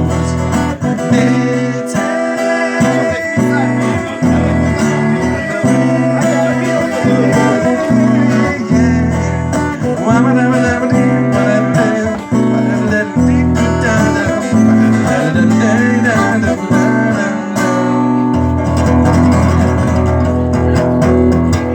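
Guitar-accompanied song music in a stretch without sung words, with strummed and plucked guitar.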